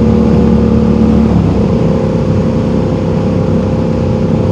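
Motorcycle engine running at a steady cruise under a low rumble of road and wind noise. Its pitch shifts about a second and a half in.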